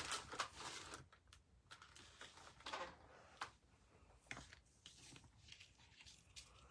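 Paper and cardstock handled on a desk: a soft rustle and slide of paper in the first second, another around the middle, and scattered light taps and clicks.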